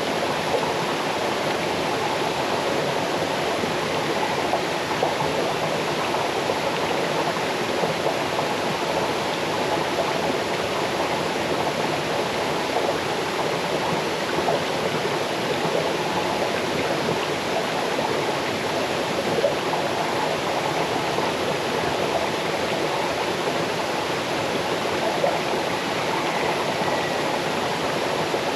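Small waterfall stream cascading over stones: a steady, unbroken rush of water, strongest in the middle range, with light splashing detail.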